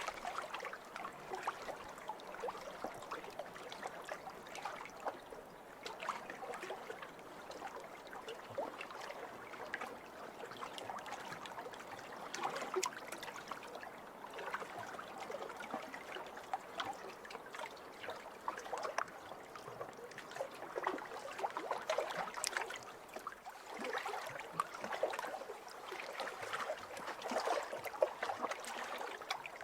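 Small waves lapping over a pebble beach: a steady wash of water with many fine clicks of pebbles rattling, swelling every few seconds as a wave comes in and draws back.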